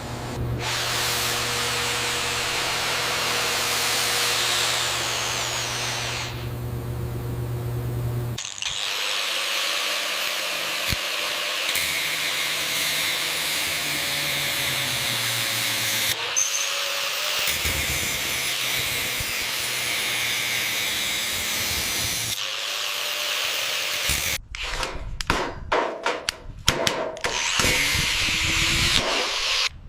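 A handheld power tool running in long continuous passes, its motor humming under a dense grinding noise. In the last few seconds it breaks into short stop-start strokes.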